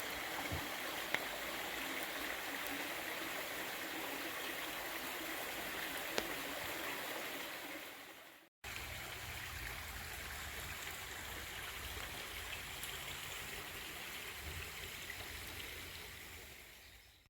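Stream water running steadily, in two stretches: the first fades out about eight seconds in, and the second, with a low rumble underneath, fades out near the end.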